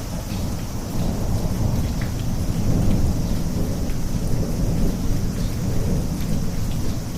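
Steady rain with a continuous low rumble of thunder, swelling and easing a little.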